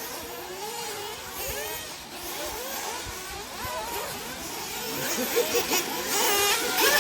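Several 1/8-scale nitro off-road RC buggies' small two-stroke glow engines revving up and down around the track, their whines overlapping and rising and falling in pitch. They get louder about five seconds in, as cars come closer.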